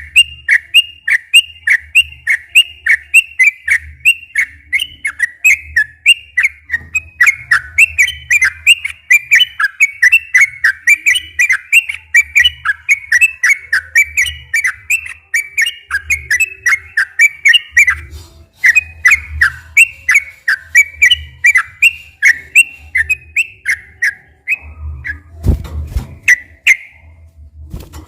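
Yellow-vented bulbul (trucukan) singing a long, rapid run of short, bubbly whistled notes, about three or four a second, with a brief pause about two-thirds of the way through. Near the end there is a low thump.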